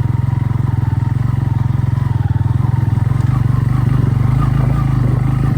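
Motorcycle engine running steadily while riding, with a fast, even firing pulse.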